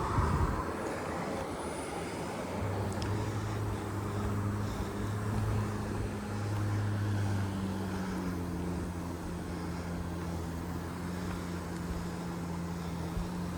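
An engine running with a steady low hum that shifts slightly in pitch about eight seconds in, after a brief rumble of wind on the microphone at the start.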